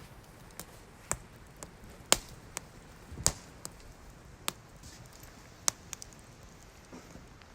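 Wood fire crackling: irregular sharp pops and snaps from burning wood over a faint hiss, with the two loudest pops about two and three seconds in.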